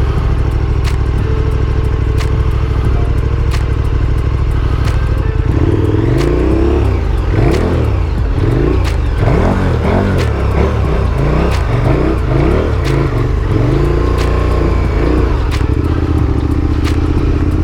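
Big adventure motorcycle's engine running under way off-road: steady at first, then from about five seconds in the revs rise and fall over and over for some ten seconds before settling again, with scattered sharp ticks.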